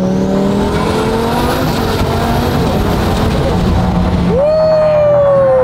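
Twin-turbo Lamborghini Huracán STO's V10 engine running as the car is driven, its note climbing in pitch over the first couple of seconds. About three-quarters of the way in, a strong high tone jumps up and then slowly sags in pitch.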